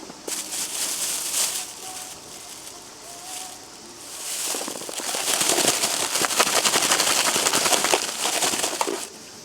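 Food sizzling and crackling in hot oil on a camping griddle: a short burst near the start, then a louder, steadier sizzle from about halfway that stops shortly before the end.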